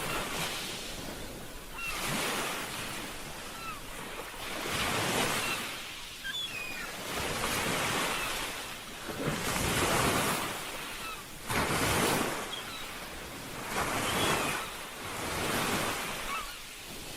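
Ocean surf: waves breaking and washing in, swelling and easing roughly every two to three seconds, with a few faint short chirps above the wash.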